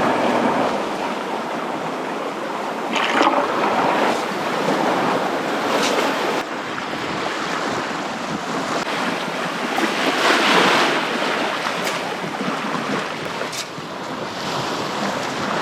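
Sea water rushing and splashing along the hull of a sailboat under way, in waves that swell and ease, with wind.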